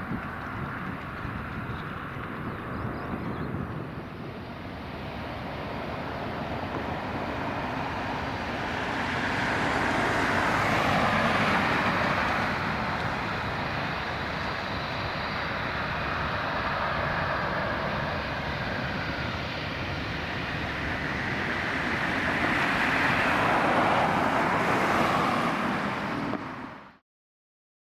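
Jet engines of a departing Boeing 787-8 Dreamliner: a continuous rushing noise that swells twice, then cuts to silence near the end.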